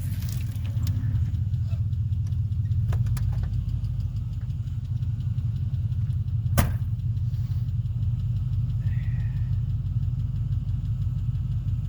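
Pickup truck engine running steadily. A few light clicks, then one sharp knock about six and a half seconds in.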